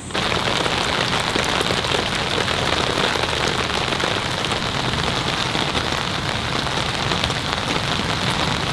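Heavy rain pouring down in a dense, steady patter of drops on surfaces, starting abruptly.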